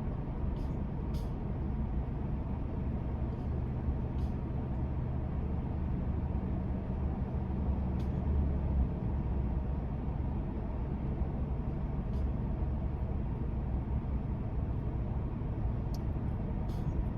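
Steady low rumble of a pickup truck's engine and road noise inside the cab while driving, with a few faint scattered clicks.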